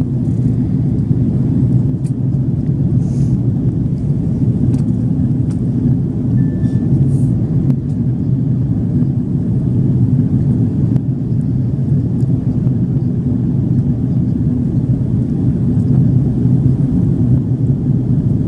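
Steady low rumble inside the cabin of an Airbus A330-300 airliner: engine and airflow noise heard from a passenger seat, with a few faint ticks.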